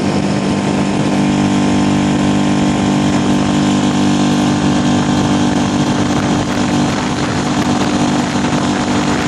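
Hidea 5 hp four-stroke outboard motor running at a steady speed, a constant even drone with no change in revs.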